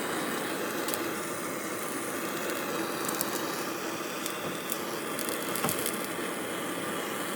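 Steady rushing noise with a few faint crackles, cut in and out abruptly.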